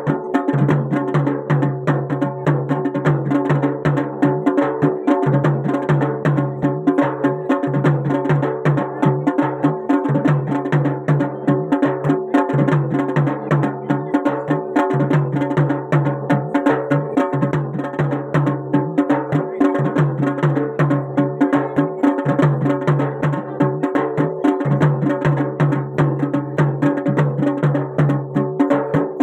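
Garhwali jagar folk music: fast, steady drumming over a sustained low drone that drops out briefly every few seconds.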